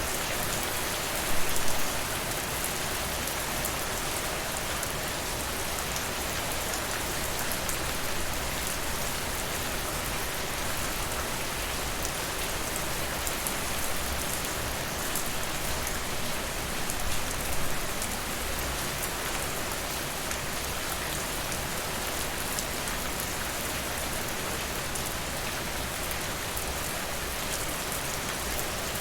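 Steady rain falling on a surface, a dense even patter of drops, with two brief louder surges, one about a second and a half in and one about midway.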